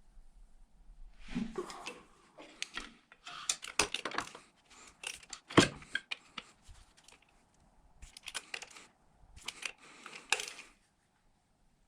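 Metal tools and bolts clinking and clattering in short bursts of handling, with one sharp metallic knock about halfway through.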